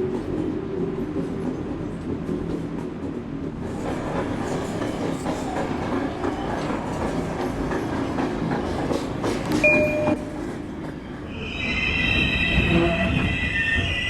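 Subway train running on the track: a low rumble that grows busier with clicks about four seconds in. Near the end the wheels squeal in several high steady tones.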